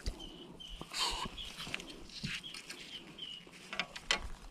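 A bird chirping: a string of short, high chirps, with a few sharp clicks in between.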